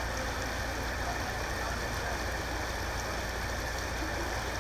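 Steady rushing noise of floodwater from a broken water main, over a low, even engine rumble.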